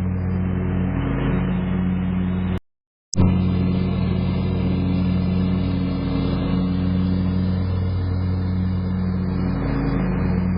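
An engine running steadily at a constant speed. About two and a half seconds in, the sound drops out completely for half a second and comes back with a sharp click.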